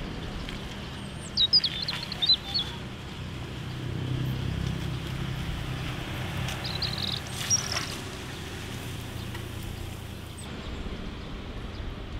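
Small birds chirping in two short runs of quick calls, about a second and a half in and again about seven seconds in, over the low steady hum of a Toyota Avanza's engine moving at slow speed.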